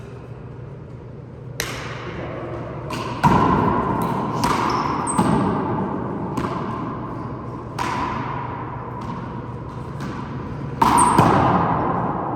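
A handball rally: about a dozen sharp smacks of the rubber ball off hands, court walls and floor, each ringing with a short echo, the loudest about three seconds in and near the end. Two short high squeaks come in between.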